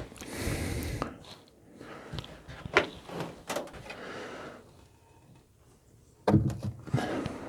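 Wooden beehive boxes being slid and handled: a scrape, a few sharp knocks, then a heavy thump about six seconds in as a box is set down.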